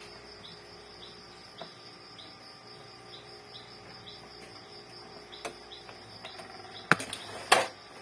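Small clicks and knocks of handling and screwing together the parts of an Epson inkjet printer, with two sharp clicks near the end the loudest. Behind them, insects chirp steadily about twice a second.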